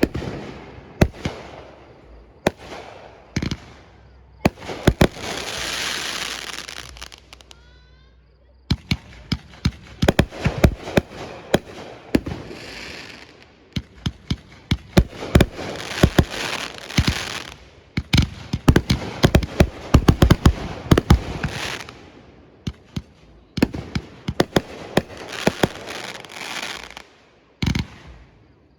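Fireworks display: shells bursting with sharp bangs, coming in dense rapid volleys with crackling between them, and a brief whistle about eight seconds in.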